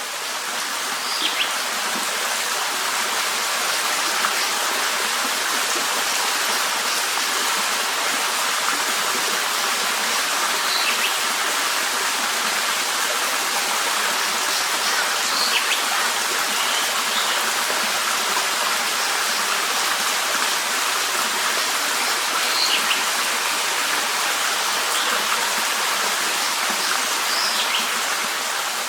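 Steady rush of running water, with short high bird chirps now and then, about seven times.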